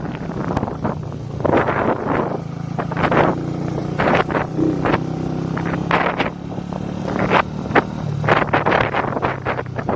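Straight-piped motorcycle engine running at a steady pace while riding, with repeated bursts of wind buffeting the microphone.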